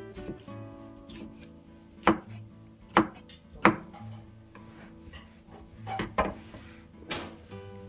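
Knife chopping on a cutting board: about six separate, irregularly spaced strokes, the loudest in the middle.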